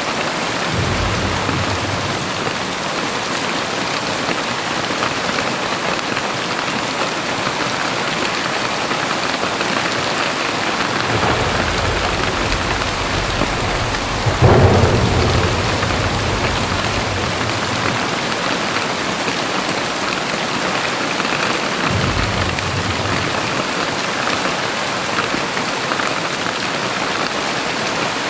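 Very heavy rain falling in a steady hiss, with deep rumbles coming and going. The loudest rumble starts sharply about halfway through and dies away over a few seconds.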